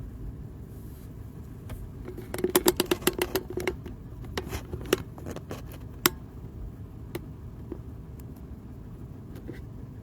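Steady low hum, like an engine idling, with a quick run of sharp clicks and taps about two seconds in and a few scattered single clicks after.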